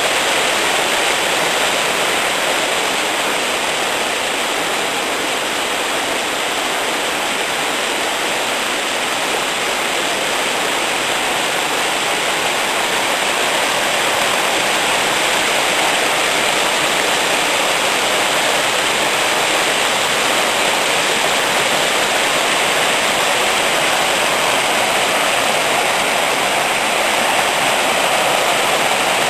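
Asahi Falls, a waterfall in Izu, pouring steadily over stepped columnar-jointed rock: a constant, even rush of falling water.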